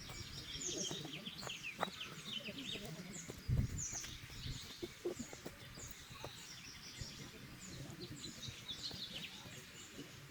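Many small birds chirping and twittering together in a dense, continuous chorus, with scattered knocks and a dull thump about three and a half seconds in.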